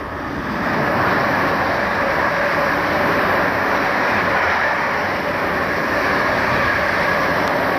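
Passenger train passing at speed along the platform: a loud, steady rush of wheels on rails that swells about a second in and then holds.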